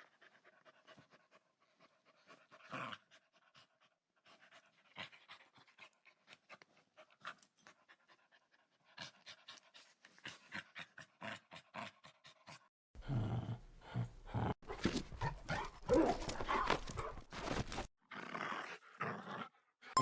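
A dog panting. Quiet clicks and scuffles for the first half, then a louder stretch of rough, breathy noise in the last third.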